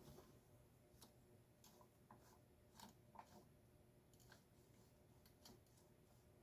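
Faint, scattered clicks and ticks of tools and small parts being handled while a gear is worked off a garage door opener, a click every half second to second with near silence between.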